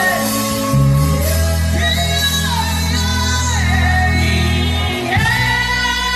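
A man humming a slow worship melody without words, holding long notes and sliding between them, over sustained low accompaniment chords that change about a second in and again near the end.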